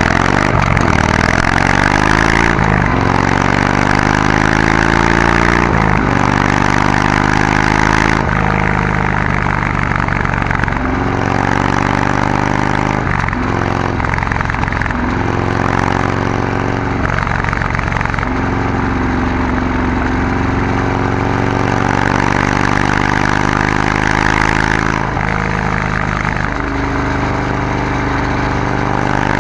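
Harley-Davidson Sportster's air-cooled V-twin exhaust while riding. The engine pitch climbs and drops back three times in the first eight seconds as it accelerates up through the gears, then runs at a steadier pitch with small rises and dips as the throttle is opened and eased.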